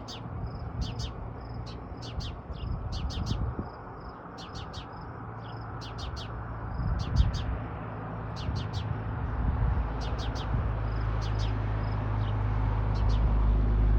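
A bird chirping in repeated clusters of two to four short, high calls, scolding. A low rumble underneath grows louder near the end.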